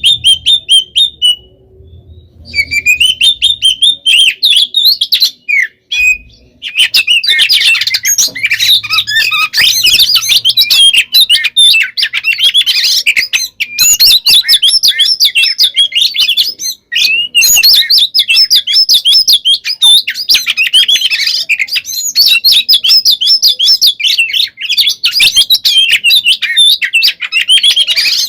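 Oriental magpie-robin (kacer) singing a loud, fast, nonstop fighting song of rapid chirps, trills and whistles. It stops and starts a few times at first, then pours out without a break from about seven seconds in.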